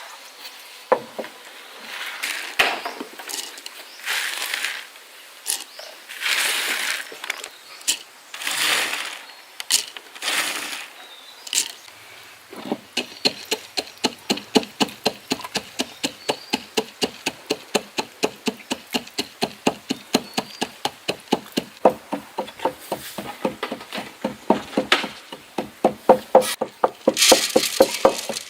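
Scattered handling knocks and rustles, then from about twelve seconds in a fast, even run of hard knocks on wood, about four a second, from food being chopped or pounded by hand.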